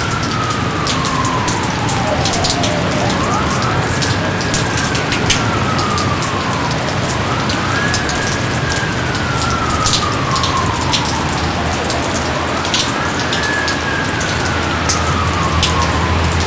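Steady heavy rain, a dense hiss with many individual drops pattering. Over it a wailing tone rises quickly and then falls slowly, repeating about every four seconds.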